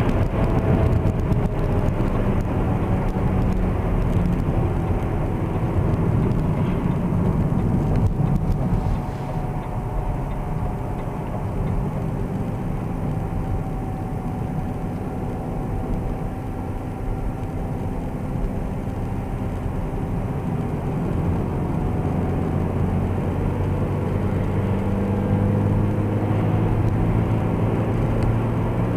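Opel Astra H cabin at road speed with the windows shut: a constant low drone with a faint whine above it. The drone is not from the engine or the quiet Michelin Primacy 3 tyres. About nine seconds in, entering a right-hand curve, the drone fades and the cabin goes quieter; the low hum builds back toward the end.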